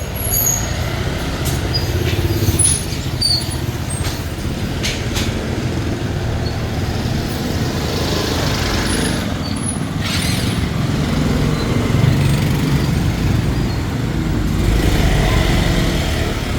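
Busy street traffic, mostly motorbikes, passing with a steady low rumble. Louder passes swell up around eight to ten seconds in and again near the end, and a few short clicks and high chirps sound in the first few seconds.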